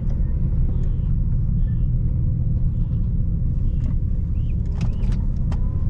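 A 6-speed manual Nissan Altima's engine and exhaust running with a steady low rumble at low speed, heard from inside the car, with road noise from a bumpy surface. A few light clicks and squeaks come near the end.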